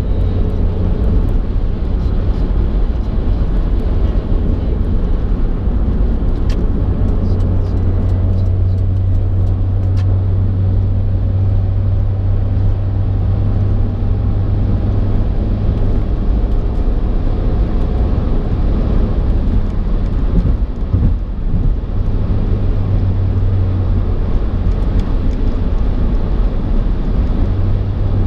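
Car driving along a road: a steady low rumble of engine and tyre noise, dipping briefly about two-thirds of the way through.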